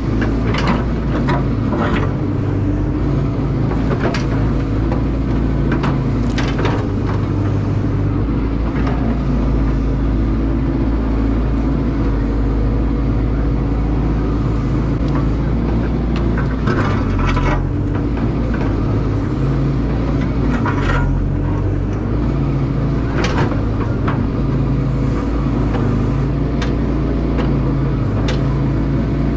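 Caterpillar excavator's diesel engine running steadily under working load, with several short knocks and scrapes scattered through it.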